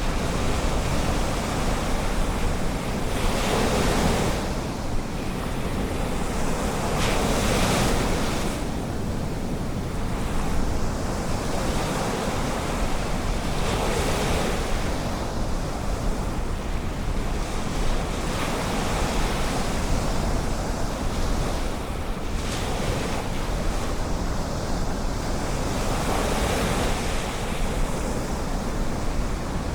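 Ocean surf on a beach: a continuous wash with a wave breaking every few seconds, and wind rumbling on the microphone.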